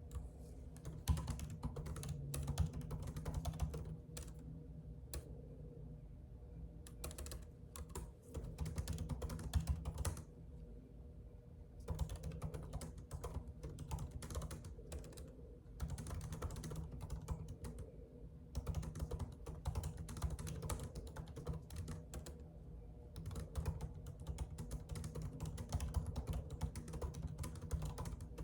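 Typing on a computer keyboard: rapid runs of key clicks broken by short pauses of a second or two, over a low steady hum.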